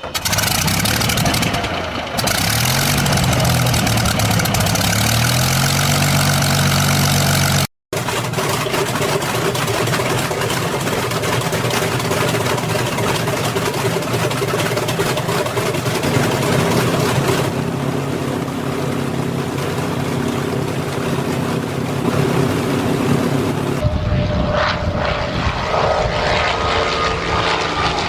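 Propeller aircraft piston engines running loudly, in several spliced recordings, with the engine pitch rising and falling in the first few seconds. The sound drops out briefly about eight seconds in.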